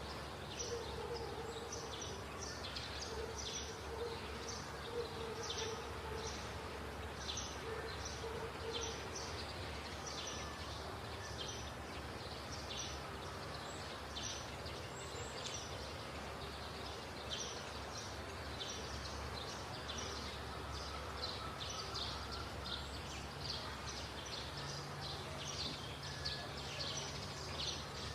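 Small birds chirping over and over above a steady low hum.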